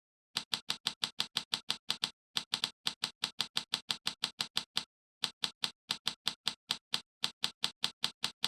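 Rapid typing clicks like a typewriter sound effect, about seven keystrokes a second, in three runs with short pauses about two seconds and five seconds in.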